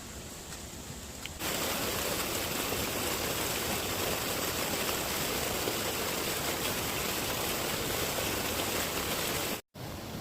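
Steady rushing of water, starting suddenly about a second and a half in and cutting off abruptly near the end.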